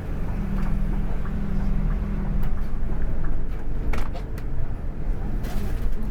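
Scania K410 coach's engine running steadily with a low hum, with scattered clicks and rattles, several close together about four seconds in and a cluster near the end.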